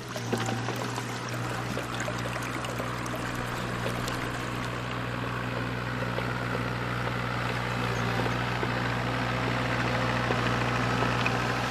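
An engine running steadily at a constant speed, with rushing water over it.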